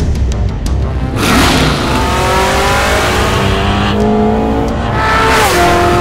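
High-performance car engine accelerating at full throttle, its pitch climbing steadily, then dropping sharply at a gear upshift about five seconds in and climbing again.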